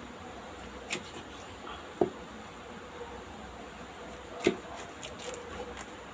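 A few sharp knocks, the loudest about two seconds in and again about four and a half seconds in, with lighter clicks between them and near the end.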